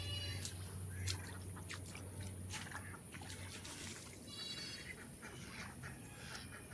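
Faint farmyard sounds: two brief high calls from farm birds, one at the start and one about four and a half seconds in, over a soft trickle of floodwater and a few light clicks.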